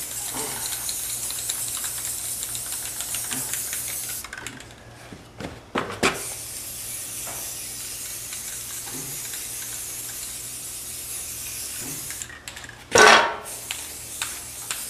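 White paint being sprayed: a steady spray hiss in long passes, broken by pauses with a couple of clicks in the middle and a short loud knock near the end before the hiss starts again.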